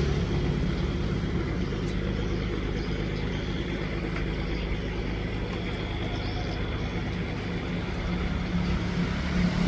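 A boat's engine running steadily at low revs, with an even hum and no change in pace.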